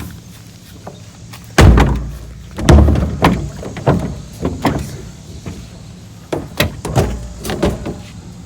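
Two heavy thumps about a second apart, followed by a run of lighter irregular knocks, as of heavy objects being handled and set down.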